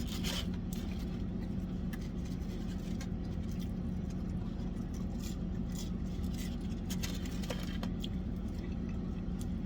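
Steady low hum of an idling car heard from inside the cabin, with a few faint scattered clicks and rustles from people eating.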